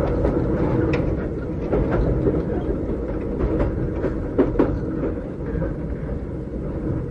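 Running noise heard inside a Keikyu old 600-series (second-generation) electric car with Toyo Denki electrical equipment. The wheels clack over rail joints a few times, loudest as a quick double clack about four and a half seconds in.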